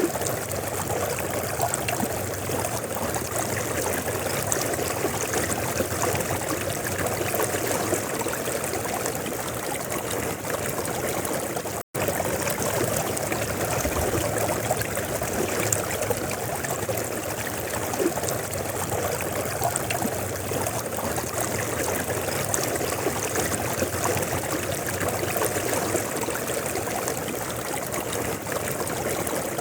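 River water flowing steadily, with a split-second dropout about twelve seconds in.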